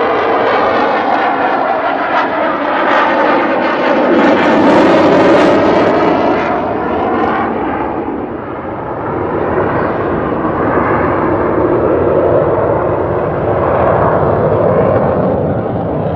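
Airplane engine flying by, loud and continuous, its pitch bending and sliding as it passes. It is loudest about five seconds in, dips briefly, then carries on.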